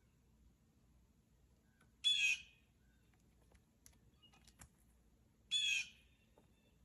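Blue jay giving two short harsh calls, about three and a half seconds apart, with a few faint clicks between them.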